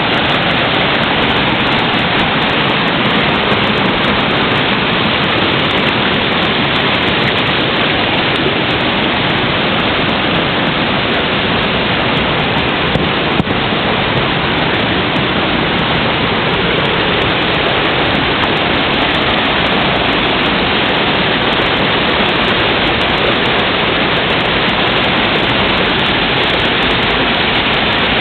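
A waterfall's falling water, a loud, steady rush with no change throughout, with one brief click about halfway through.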